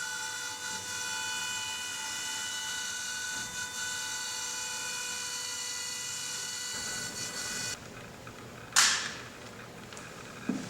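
CNC foam-milling machine's spindle running with a steady high whine of several tones, cutting off about three quarters of the way through. A second later comes a short, loud hiss, then a knock near the end.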